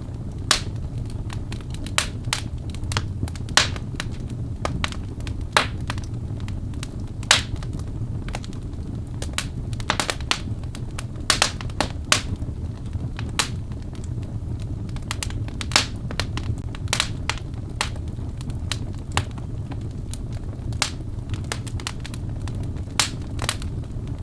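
Wood fire burning in a fireplace: a steady low rumble of the flames with sharp, irregular crackles and pops from the burning logs, a few of them louder than the rest.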